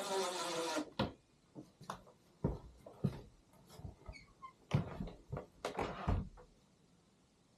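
A motor, its pitch sinking slightly, cuts off a little under a second in, followed by a string of irregular knocks and clatters from work being done by hand, ending about six seconds in.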